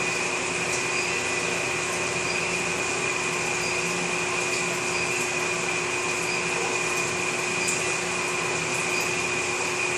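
Small electric gold-melting furnace running: a steady whirring fan noise with a constant high whine and a lower hum, unchanging throughout.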